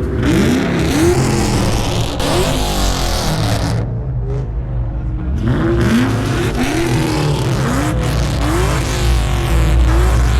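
A car engine being revved in quick repeated blips, each a short rise in pitch over a steady low rumble, with a short lull around the middle before the blips start again.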